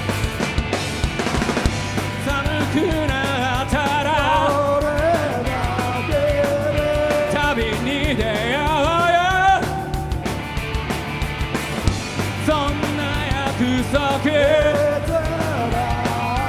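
Live rock band playing: drums and bass under a wavering lead melody with wide vibrato and bends, sliding upward about nine seconds in.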